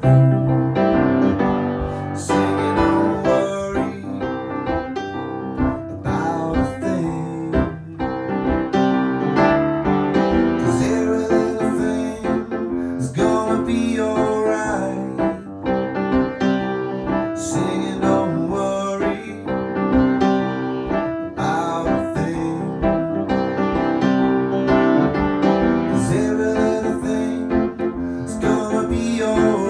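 Piano-sounding keyboard playing an instrumental passage of a pop song mashup, with chords and melody.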